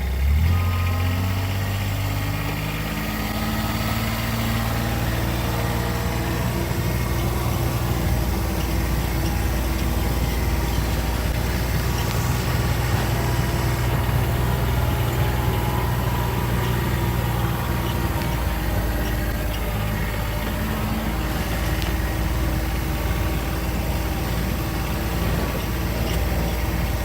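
A motor vehicle's engine runs steadily with road rumble. It picks up speed just after the start, its pitch rising, then cruises at an even pitch.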